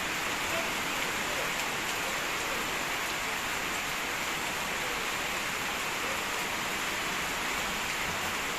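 Heavy rain falling steadily, an even hiss of downpour on hard surfaces.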